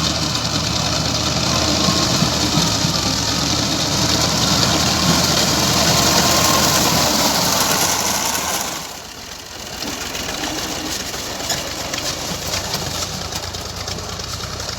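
Tractor engine running steadily while it is used to cut grass, with a strong hiss over the engine note. The sound drops sharply about nine seconds in, then carries on a little quieter.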